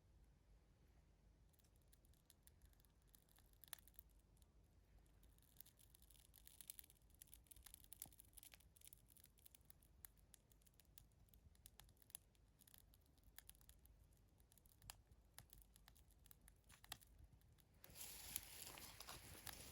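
Faint, scattered crackles and small clicks from kindling of a wood fire that is just being lit, with a louder rustling hiss setting in near the end.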